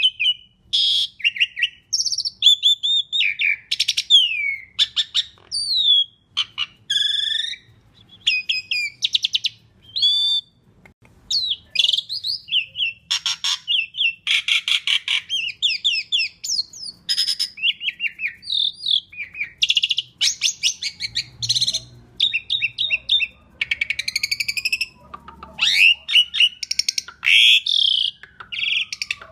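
Asian pied starling singing a continuous, varied song of clear whistles, slurred glides and fast harsh rattling phrases, with hardly a pause.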